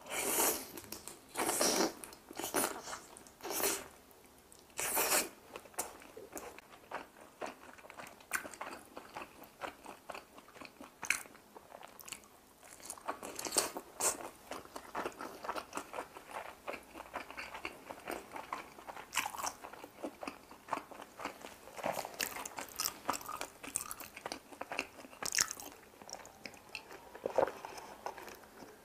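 A person biting into and chewing pan-fried dumplings, with crisp crunches from the browned skins. The loudest bites come in the first few seconds, followed by steady, softer chewing.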